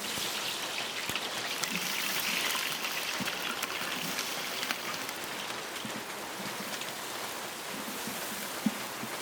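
Steady rain falling, with many separate drops ticking on surfaces and one louder tap near the end.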